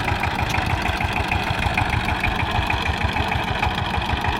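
Saifeng 12 hp power tiller's single-cylinder diesel engine running steadily with a rapid, even firing beat.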